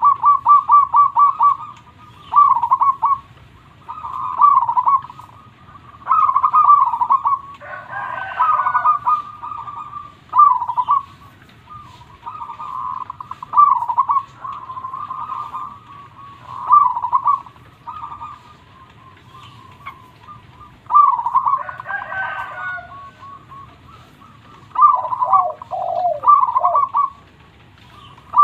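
Zebra dove (perkutut) singing, repeating short cooing phrases about every two seconds; some phrases open with a quick run of rapid coos. Twice, about a third of the way in and again near three-quarters, a rougher call with several pitches cuts across the song.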